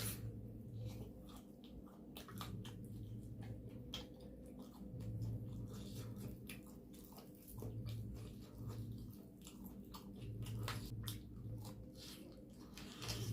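A person chewing and biting food close to the microphone, with many short wet mouth clicks. The food is mutton curry with rumali roti and rice. A low hum runs underneath.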